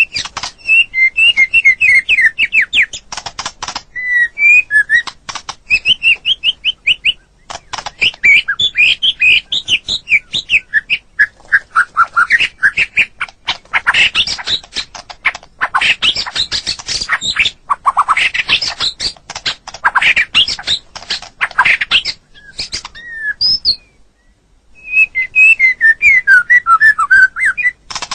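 White-rumped shama (murai batu) singing a long, varied song of quick whistled phrases and glides, mixed with many sharp clicking and chattering notes. There is a brief pause about three-quarters of the way through.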